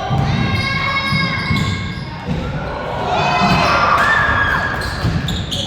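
Basketball game in a gym: the ball bouncing on the hardwood court, with drawn-out squeaks and voices from the court and stands ringing in the hall.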